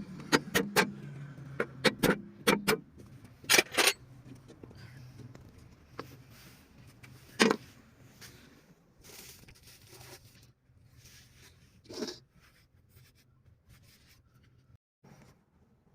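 Sharp metallic clicks and knocks of hand tools and engine parts being handled: a quick run of them in the first few seconds, then single knocks at about seven and twelve seconds, over a faint low steady hum.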